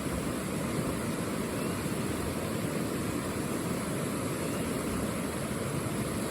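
A steady rushing noise with no separate events in it.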